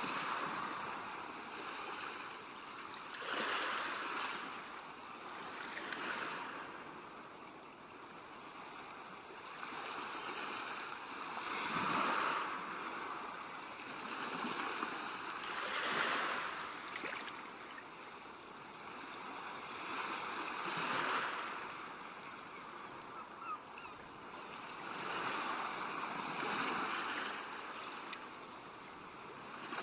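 Ocean surf: waves washing in, one surge after another, each swelling and fading over a few seconds.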